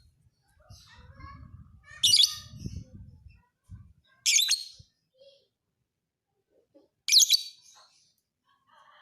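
Lovebird giving three loud, shrill bursts of chattering song, each about half a second long and a couple of seconds apart, with softer chatter between them.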